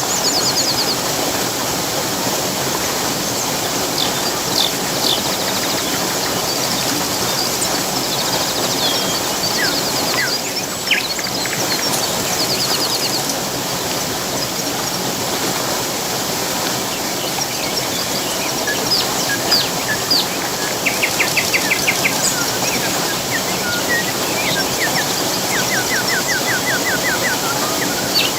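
Steady rush of falling water with songbirds chirping and calling over it. A rapid trill of about ten even notes comes twice in the second half.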